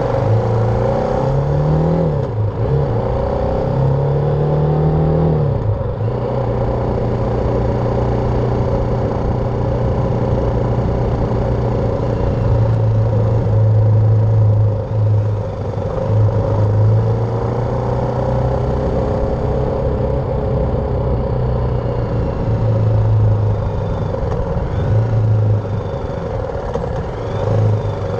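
BMW G310R's single-cylinder engine under way. Its pitch rises and drops several times in the first six seconds, like accelerating up through the gears, then holds at a steady cruise with brief dips.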